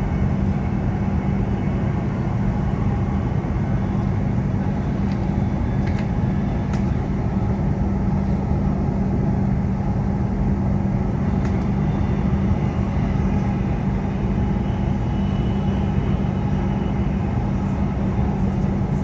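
Steady cabin noise of a Queensland Rail NGR electric train running between stations: a constant low hum over the rumble of the wheels on the rails, with a few faint clicks.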